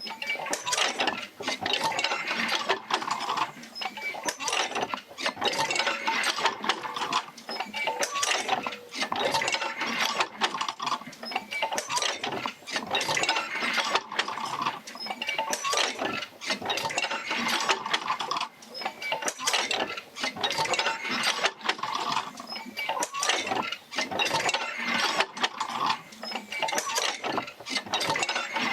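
Oil field wheel rocking back and forth, driven by the Fitzgerald rig, its jerker-line connections and pivots clanking and creaking in a cycle that repeats about every two seconds.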